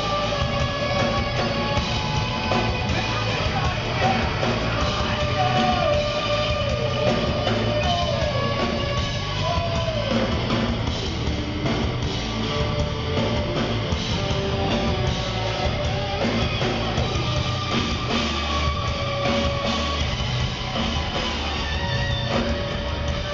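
Heavy rock band playing an instrumental passage of the song, with guitar lines bending in pitch over a dense, steady band sound.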